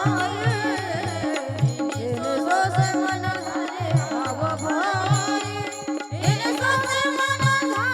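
Marathi devotional bhajan music: a hand drum keeps a steady beat of about two to three strokes a second under a sustained drone, with a wavering, ornamented melody line above.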